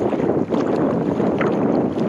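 Wind buffeting the microphone over the splash and wash of a kayak being paddled, with a brief sharper splash about one and a half seconds in.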